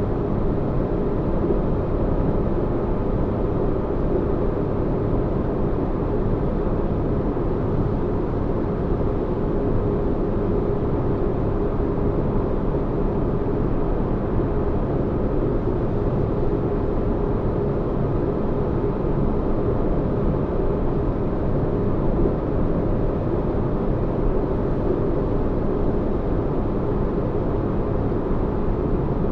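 Steady low, rumbling spaceship-interior ambience: a deep bass hum of engines with a faint steady tone, unchanging throughout.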